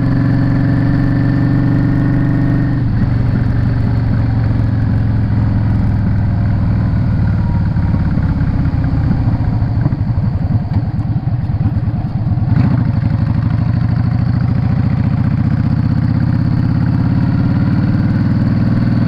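Yamaha Drag Star 650's V-twin engine and exhaust while riding: the engine note drops about three seconds in as the throttle closes, runs low and uneven for several seconds, then picks up again about twelve seconds in and rises steadily under throttle.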